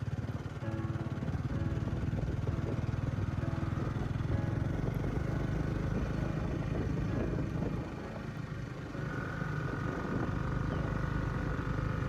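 An engine running steadily, dipping slightly in level about eight seconds in and picking up again a second later.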